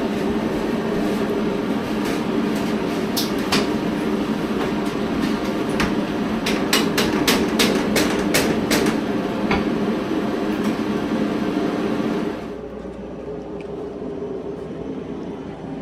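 Hammer tacker stapling house wrap to the wall: sharp single strikes, then a quick run of about eight, over a steady rumbling background. About twelve seconds in the background drops suddenly and the strikes stop.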